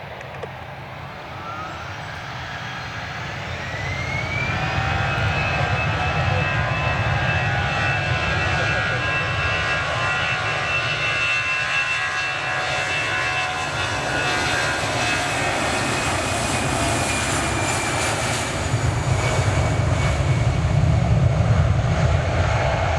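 Jet airliner engines whining, the pitch rising over a few seconds to a steady high tone over a deep rumble, and the rumble grows louder near the end.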